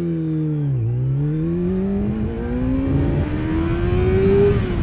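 600cc sportbike engine pulling away in a launch: the revs sag for under a second, then climb steadily for about three and a half seconds before dropping sharply near the end.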